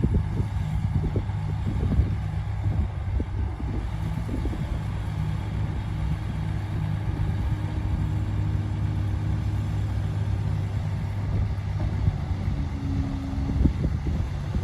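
Komatsu D58P bulldozer's diesel engine running steadily at a low, even drone. Irregular knocks and clanks come through in the first few seconds.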